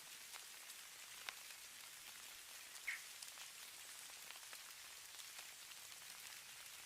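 Falling snow: a faint, steady high hiss with many small scattered ticks of landing precipitation, two slightly louder ticks at about one and three seconds in.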